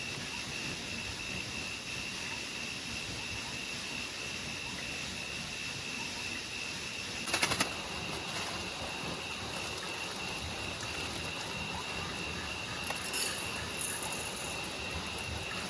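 Steady rain falling, an even hiss with a thin steady high tone over it. A sharp crackling knock about seven seconds in and a few lighter clicks near the end.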